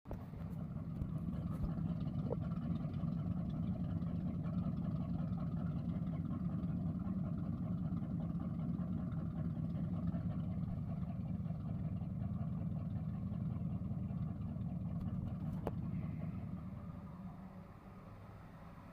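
Inboard engines of a motor boat running steadily at idle, with a low even drone. Both engines are running, the port one restarted with a new gear-reduction starter. The sound fades away over the last couple of seconds.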